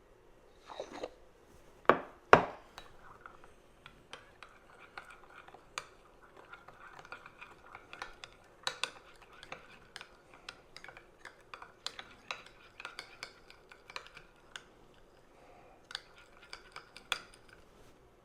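A spoon stirring a thick sour-cream sauce in a small bowl, clinking against the bowl: two louder knocks about two seconds in, then light, irregular clicks.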